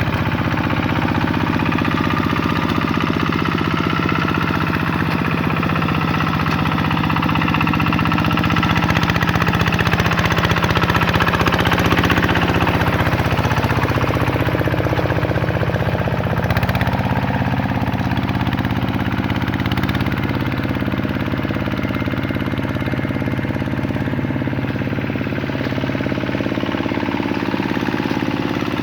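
Vikyno RV125-2 hand tractor's single-cylinder diesel engine running steadily while plowing. About halfway through, its note dips and then climbs back up.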